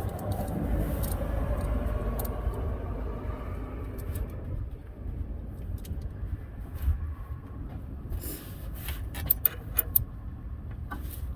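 Hand tools clinking on metal while working on a 1970 GMC pickup's fuel pump bolts, with a few sharp clinks close together near the end, over a steady low rumble.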